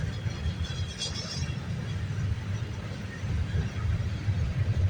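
Freight train cars, mostly gondolas, rolling past at speed with a steady low rumble, and a faint high squeal in the first second or so.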